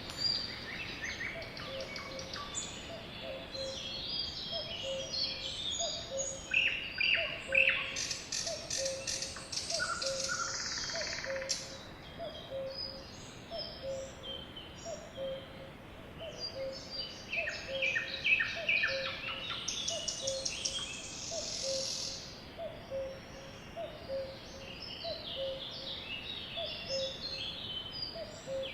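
A flock of sparrows chirping, many short high chirps overlapping, thickening into busy flurries of rapid chirping twice. Beneath them a faint low note repeats steadily about once a second.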